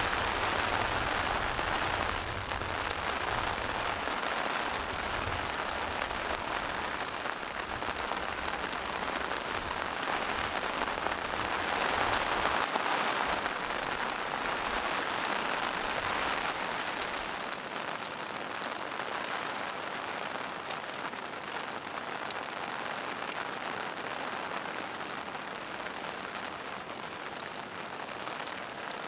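Steady rain falling in a forest, an even hiss of drops on leaves and rocks. It swells a little about twelve seconds in and eases slightly toward the end.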